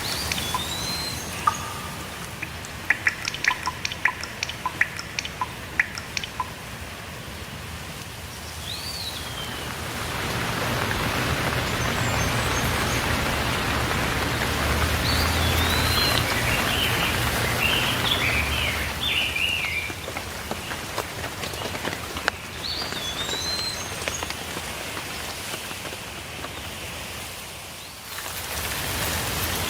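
Steady rain falling, swelling and easing, with clusters of sharp raindrop taps and songbirds calling. A short slurred whistle repeats every several seconds, and a warbling song comes in around the middle.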